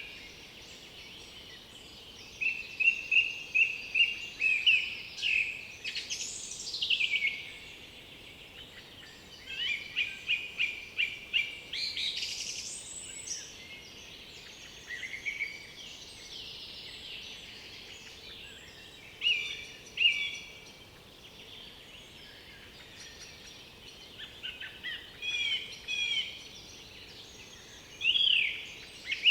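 Several songbirds singing, one phrase at a time with pauses between. Some phrases are quick runs of repeated notes and others are fast rising or falling sweeps, all over a faint steady background hiss.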